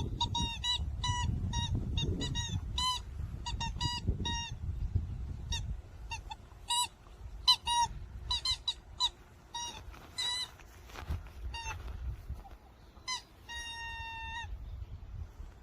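Squeaky toy ball squeaking over and over in short, flat-pitched squeaks as a Jindo puppy chews and plays with it, with one longer squeak near the end. A low rumble runs under the first half.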